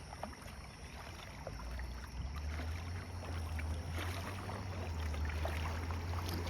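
Kayak under way on a lake: faint water splashes and drips against the hull, with a low steady rumble that comes in about two seconds in.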